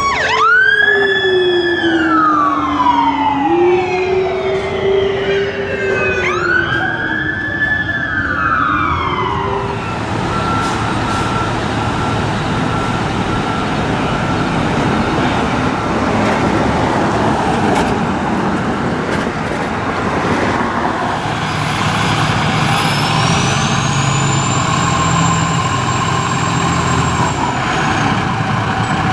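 Emergency vehicle siren wailing, rising sharply and falling slowly twice with a lower tone gliding beneath it. Then the siren stops and a fire truck's engine runs steadily with traffic noise.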